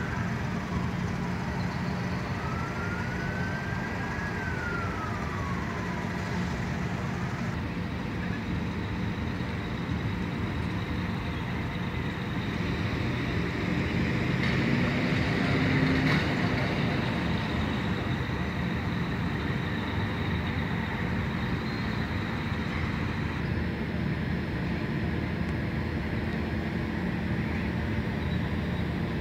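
Steady low idling hum of a car engine with the background noise of the port and road. In the first few seconds a faint tone rises and then falls, and the noise swells briefly about halfway through.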